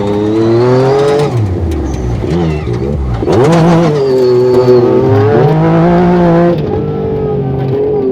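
Yamaha 1000R side-by-side UTV engine pulling under throttle while driving offroad, its pitch climbing and falling as the driver gets on and off the gas: it rises for the first second, eases off, surges again after about three seconds, holds high, then drops back near the end.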